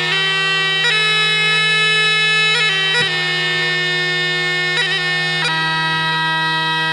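Bagpipe music: a slow tune over a steady low drone, with quick grace-note flourishes between the held melody notes.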